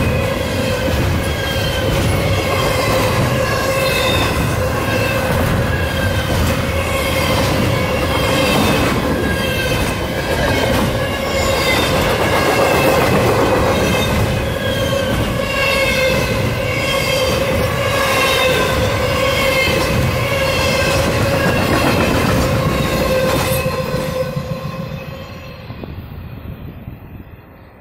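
Freight train rolling past at close range: a loud rumble of wheels on rail with a steady squealing tone from the wheels throughout. It fades away over the last few seconds as the train moves off.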